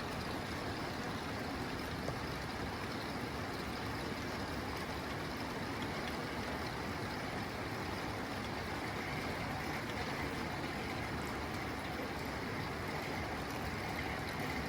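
Rain falling steadily on a tin roof, an even patter with no let-up.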